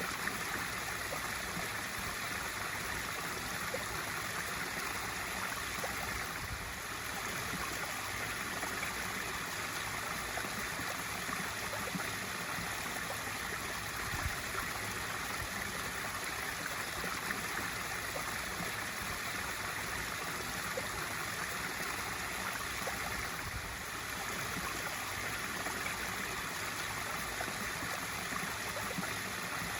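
Swimming pool waterfall feature running: water pouring steadily into the pool with a constant splashing and trickling.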